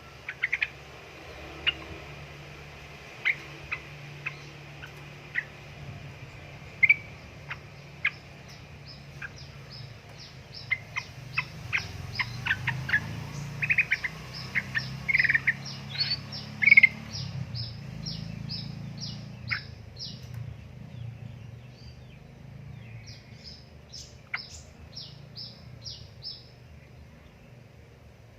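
Yellow-vented bulbuls (trucukan) calling: short, sharp chirps, then long runs of rapid, evenly spaced high notes, the fast rolling chatter that keepers call ropel. A steady low hum runs underneath.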